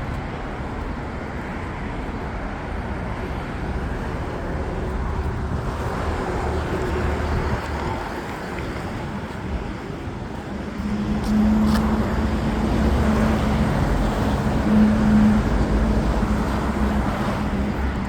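Steady outdoor road-traffic rumble, with a vehicle's steady engine hum coming in about eleven seconds in and holding for several seconds.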